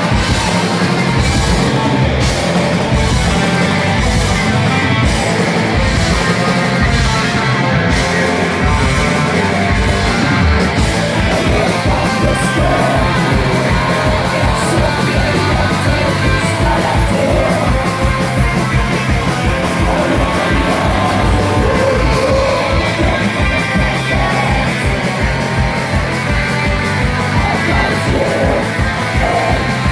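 Live rock band playing loudly: electric guitars, bass and drum kit, with vocals. About ten seconds in the kick drum settles into a fast, even beat.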